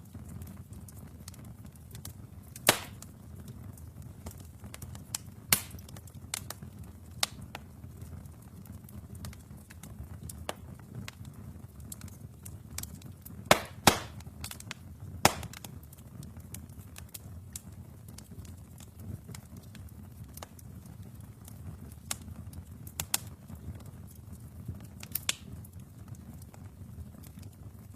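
Wood fire burning in a fireplace: a steady low rumble of flames with sharp crackles and pops from the burning logs at irregular intervals, the loudest a close cluster about halfway through.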